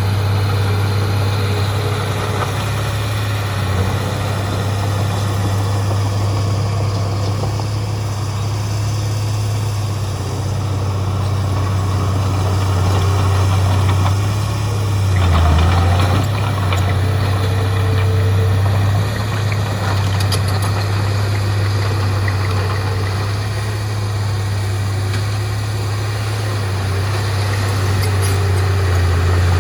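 Heavy diesel earthmoving engine running with a steady low drone. About halfway through it briefly gets louder, then settles back.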